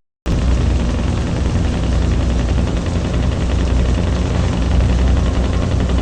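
Truck engine running steadily at a loud, even level, with a brief cut to silence right at the start.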